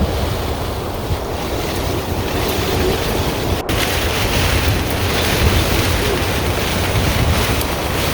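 Storm-force squall wind blasting across a sailboat on its mooring, buffeting the microphone heavily, with rough water washing around the hull. The noise is loud and steady, with a momentary dropout about three and a half seconds in.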